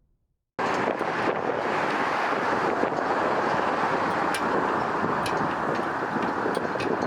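Steady outdoor rush of wind on the microphone mixed with road traffic noise, cutting in suddenly about half a second in after a brief silence.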